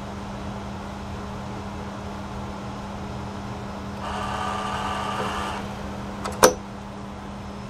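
Krups automatic coffee machine running with its cover off: a steady hum, then a louder whirring stretch of about a second and a half, followed by a few sharp clicks, the last one loud.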